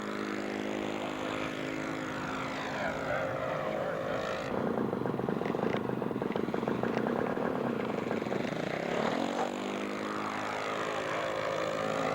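Radio-controlled model airplane's engine running steadily in flight. It turns harsher about four and a half seconds in, and its pitch dips and then climbs again around nine seconds as the plane passes.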